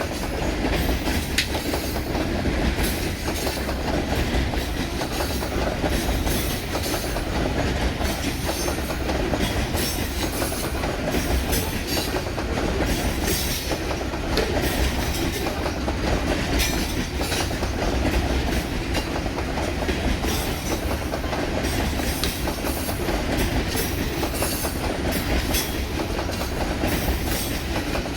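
Coal cars of a long freight train rolling past: a steady rumble with the clickety-clack of wheels over the rail joints.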